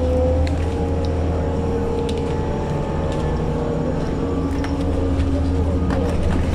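Cabin noise inside a crowded city bus: a steady low drone from the bus's engine with held mechanical tones, voices of passengers in the background and a few short clicks and rattles.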